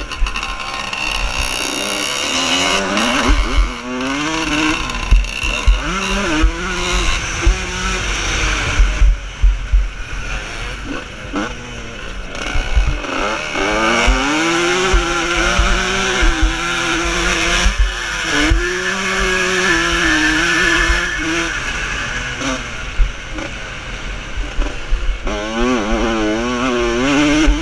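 Vintage motocross motorcycle engines revving hard on the track, their pitch rising and falling repeatedly as riders work the throttle and shift. Near the end, several bikes can be heard at once.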